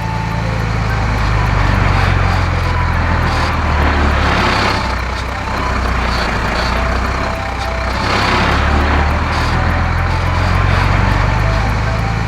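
Heavy truck engine sound effect running steadily, swelling louder several times as if revving, with faint light music underneath.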